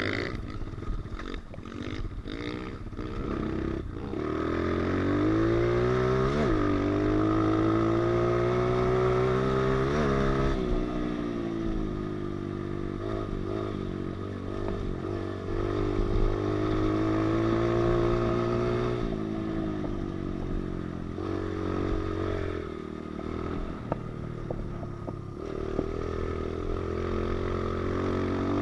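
Pit bike engine running as the bike is ridden, its revs rising and falling with the throttle: climbing through the first ten seconds with a couple of brief breaks, easing off about two-thirds of the way through, and climbing again near the end.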